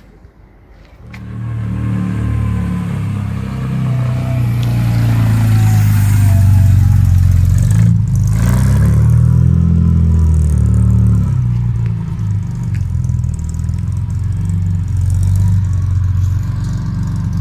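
The 1938 SS Jaguar 3½ Litre's straight-six engine starts about a second in. It is revved up and back down, then runs steadily. The engine is overheating and pushing coolant out of the radiator, which the owner suspects could be the water pump.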